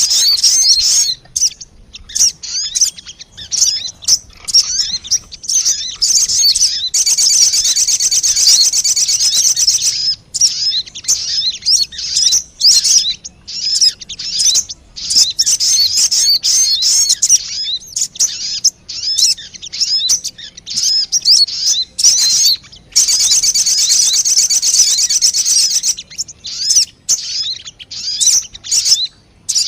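Sogon bird lure call: rapid high-pitched chattering chirps broken by short gaps, with two longer, faster trills, one about seven seconds in and one about twenty-three seconds in.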